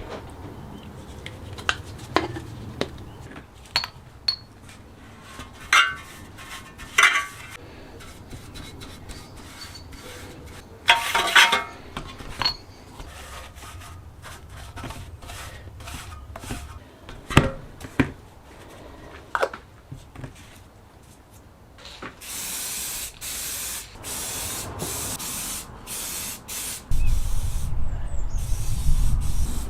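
Workshop handling noises: scattered clinks and knocks of small parts and tools, then several short hissing spray bursts about two-thirds through, and a longer, louder hiss with a low rumble near the end.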